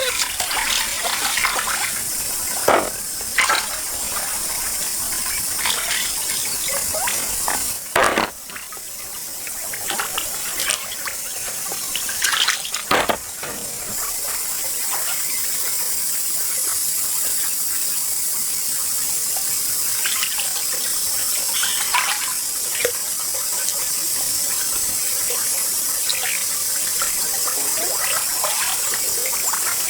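Pond water sloshing and splashing as hands work through shallow water and mud, with a few sharper splashes about 3, 8 and 13 seconds in. A steady high hiss runs underneath.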